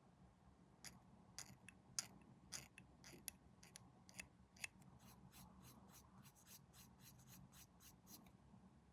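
A small hand cutter snipping plastic again and again, faintly: a string of short crisp snips, scattered at first, then a quicker run of about three a second in the second half.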